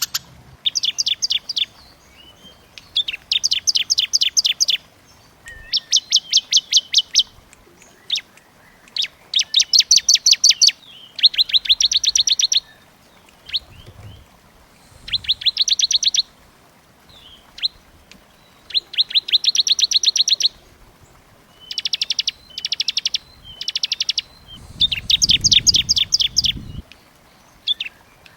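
Small songbird singing a tight, rapid trill song: phrases of very quick high notes, each lasting a second or two, repeated with short pauses between them. This is the 'burcil rapat' style of song used as masteran to tutor kacer, murai batu and cucak ijo.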